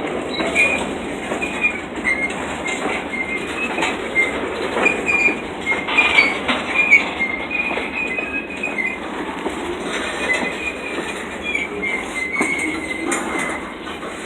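Freight train cars rolling past, with short, high-pitched wheel squeals against the rail coming and going and irregular clicks and knocks from the wheels.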